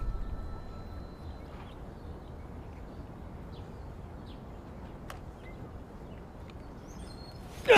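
Quiet outdoor ambience with a few faint, short bird chirps scattered through it and a single sharp click about five seconds in, after a low rumble fades out in the first second.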